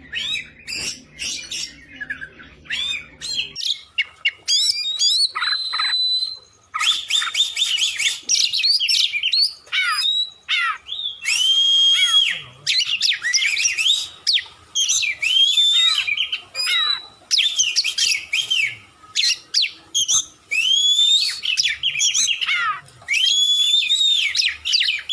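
Oriental magpie-robin (kacer) singing loudly and without letup: a fast stream of whistled phrases, many notes sliding up or down, broken only by brief pauses. A faint low hum runs under the song for the first few seconds, then stops.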